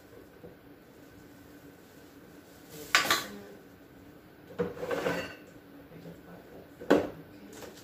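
Food containers and condiment bottles being handled and set down on a hard surface: three separate knocks about two seconds apart, the middle one longer and rattling.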